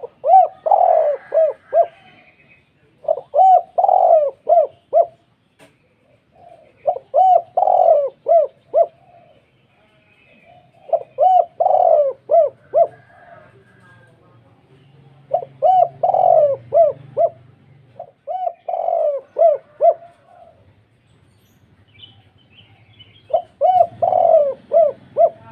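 Spotted dove (tekukur) cooing its deep call: seven phrases of several coo notes each, one every three to four seconds.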